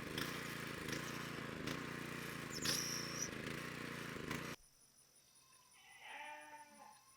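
A loud, steady, mechanical-sounding noise cuts off suddenly partway through. In the quiet after it, a farm animal, goat or sheep, gives one bleat.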